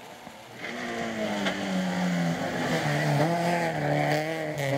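Rally car engine running hard under load. It comes in about half a second in, and its pitch wavers, dropping and then climbing again a little past halfway.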